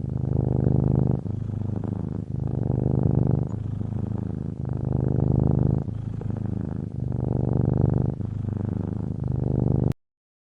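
A cat purring, swelling and easing in turn about once a second with its breaths, then cutting off suddenly near the end.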